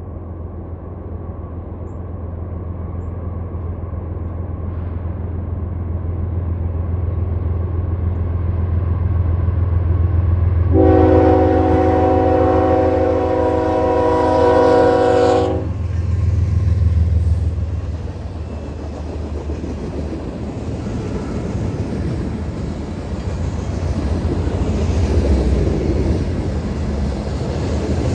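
Freight train led by NS ES44AC 8100 and a CN SD75I passing close by, the diesel rumble growing as it approaches. About eleven seconds in, the lead locomotive's horn sounds one long blast of about five seconds as the engines go by. The loaded freight cars then roll past with steady wheel-and-rail noise.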